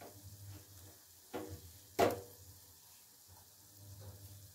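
Onion-tomato masala sizzling faintly in oil in an aluminium pressure cooker, broken by two sharp knocks about one and a half and two seconds in, the second the louder. A spoon starts stirring the masala near the end.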